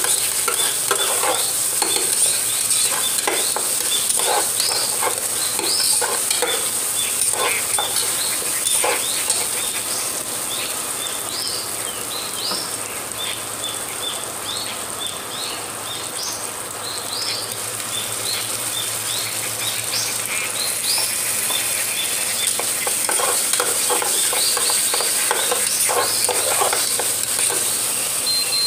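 Chicken, potatoes and onions sizzling in oil in a pressure-cooker pot while a metal spatula stirs and scrapes them against the pot's sides and bottom. The scraping strokes thin out for a while in the middle and pick up again near the end.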